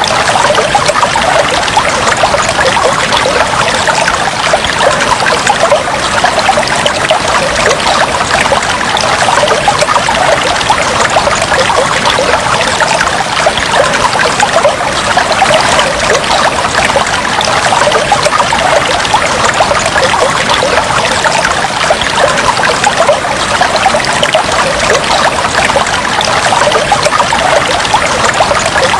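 Aquarium water trickling steadily: a dense, even patter of small splashes that does not change throughout.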